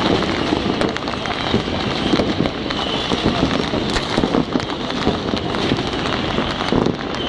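Many fireworks and firecrackers going off across a city at once: a continuous dense crackle of small pops and bangs.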